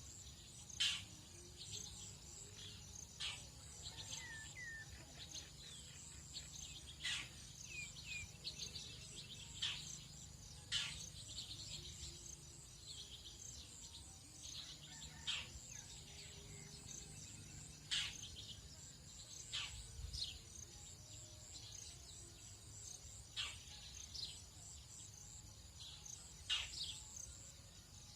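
Tropical dawn chorus: a steady high insect drone, with short, sharp bird calls every second or two and a few soft chirps. A faint low hum runs underneath.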